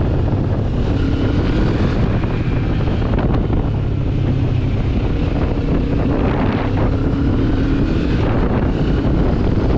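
Benelli TRK 702's parallel-twin engine running steadily under way, its note drifting slightly, under heavy wind rush on the microphone.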